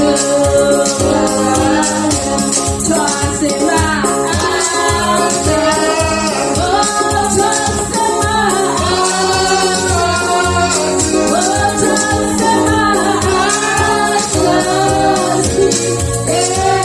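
Gospel praise song sung by a group of voices over a steady beat with tambourine, as congregational worship music.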